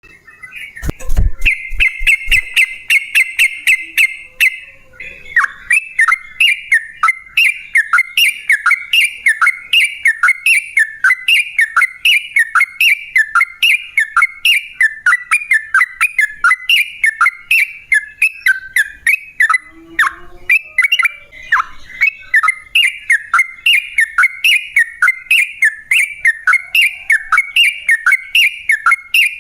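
Yellow-vented bulbul (trucukan) calling. It opens with a short thump and a fast chattering trill, then repeats short bubbly phrases at about two a second.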